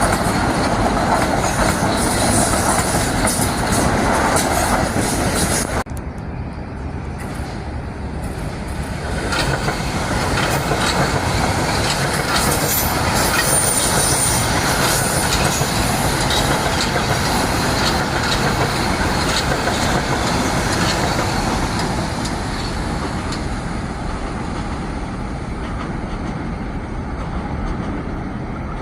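Metro-North commuter train running past on the tracks, its steel wheels rumbling and clattering over the rails, with faint high wheel squeals. The noise drops suddenly about six seconds in, then builds again and stays steady.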